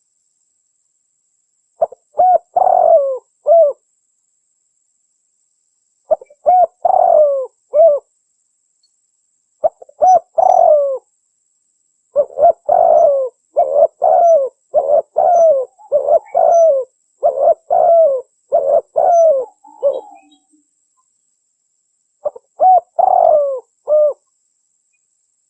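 Spotted dove (tekukur) cooing: repeated coo phrases in separate groups with silent gaps between, and a longer unbroken run of about a dozen coos in the middle. It is a lure call used to draw wild doves to a trap.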